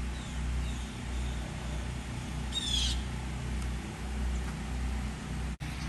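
A bird calls once about two and a half seconds in, a short burst of rapid falling notes, with fainter brief bird calls near the start, over a steady low rumble.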